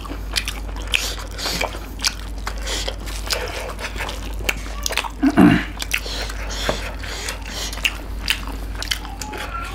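Close-miked chewing and wet mouth sounds of people eating chicken curry and rice by hand: quick clicks and smacks throughout, with one brief, louder low sound about halfway through.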